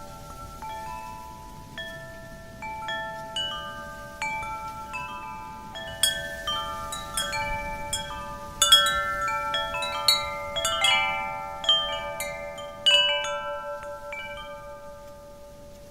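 Wind chimes ringing in irregular clusters of overlapping, slowly decaying metallic tones, blown by the wind. They are sparse at first, busiest and loudest in the middle, and thin out again near the end.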